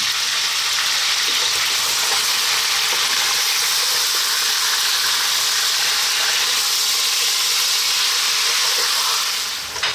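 Chicken legs, chopped garlic and red onion sizzling steadily in sunflower oil in a pot over medium heat, stirred with a wooden spatula.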